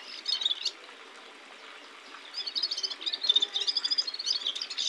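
Small caged bird singing: a rapid run of high chirps, briefly at the start and again through the second half.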